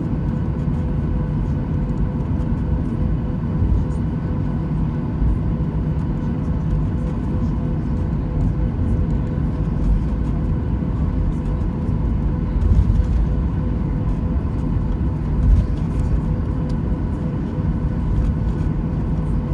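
Cabin noise inside a Boeing 737-800: its CFM56-7B engines' steady rumble with a constant whine, and two louder jolts near the middle.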